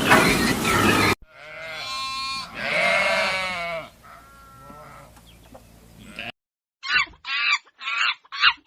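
Animal calls: a loud noisy rush cuts off about a second in. Then comes one long drawn-out bleat-like call, and near the end a quick series of about five short calls.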